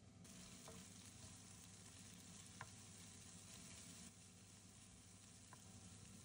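Faint sizzling of chopped green onion stems frying in oil in a wok on high heat, stirred with a spatula that gives a few light taps on the pan. The sizzle drops softer about four seconds in.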